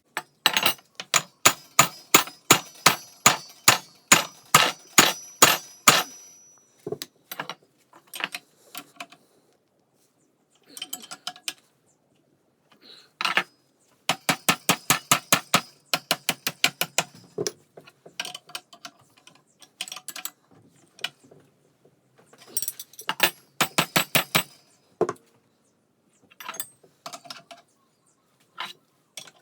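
A hammer striking metal in quick runs of blows, about three or four a second, each strike ringing. Scattered single blows fall between the runs.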